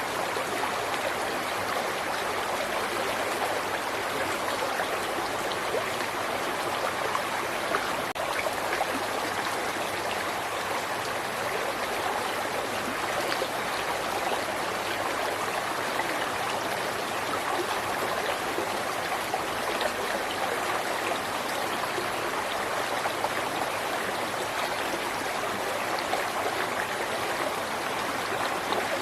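River water flowing steadily over rocks: an even rushing with fine splashing and gurgling that does not change.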